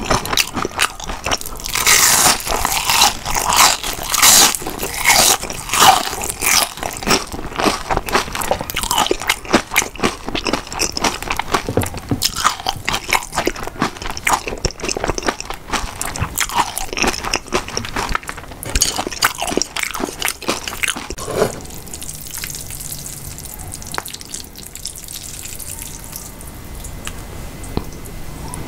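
Close-miked crunching and chewing of a bite of panko-fried shrimp, with dense crisp crunches. The crunches are loudest in the first few seconds and thin out about twenty seconds in, leaving quieter chewing.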